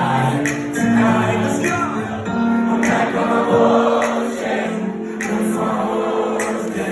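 Several voices singing together in harmony, holding long notes that change every second or so.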